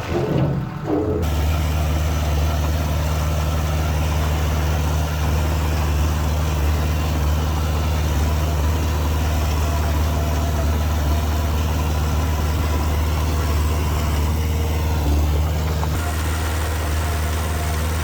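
Heavy diesel engine of earthmoving equipment running steadily at an even, low pitch. It settles in about a second in.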